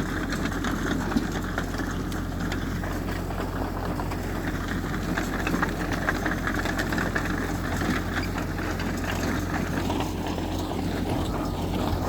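Heavy diesel earthmoving machinery running steadily, a constant low engine drone.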